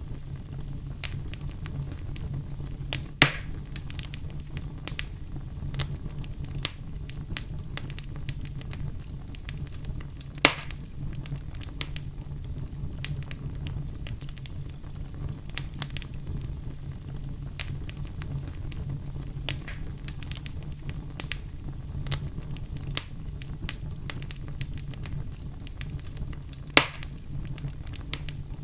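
Wood fire burning in a fireplace: steady low rumble with frequent small crackles and three loud pops, about 3, 10 and 27 seconds in.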